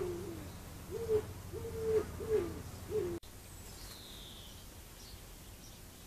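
A bird's low hooting coos, about six short notes in a broken series, cutting off suddenly about three seconds in. A single faint high chirp follows soon after.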